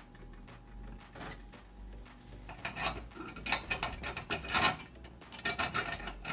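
Metal hardware clicking and clinking as U-bolts are fitted to the mill's metal frame: a light knock about a second in, then a busy run of sharp clicks from about halfway.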